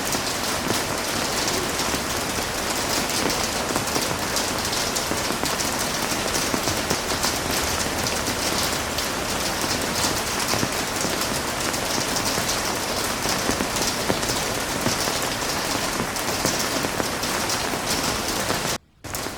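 Heavy rain falling steadily, a dense even hiss of countless drops. Near the end it cuts out abruptly for a moment, and a quieter sound takes over.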